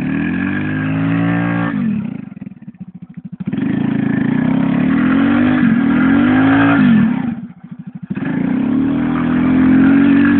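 Motorcycle engine run hard, its pitch climbing and then dropping back several times. It falls away in two short lulls and ends holding a high, steady note.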